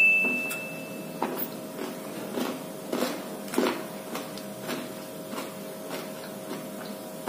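Close-up chewing of the crisp chocolate coating with peanut bits and wafer on a chocolate-dipped ice cream stick, in a steady rhythm of crackly crunches. A brief high steady tone sounds at the start.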